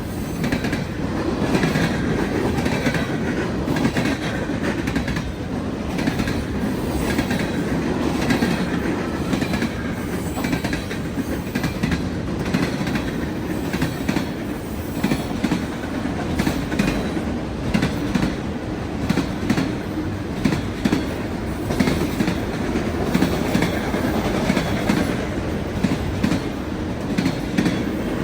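Freight train cars rolling past at speed, a steady rumble with wheels clicking over the rail joints.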